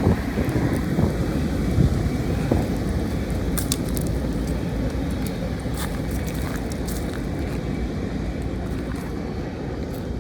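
Freight train rolling past a grade crossing: a steady low rumble with scattered sharp clicks, easing slightly toward the end.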